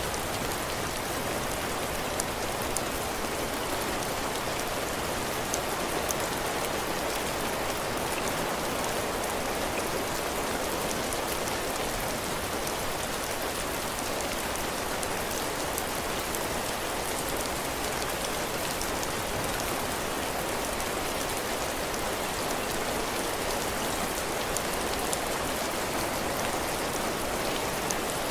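Heavy rain falling steadily on a cabin porch roof and the ground, a constant hiss with scattered drop ticks.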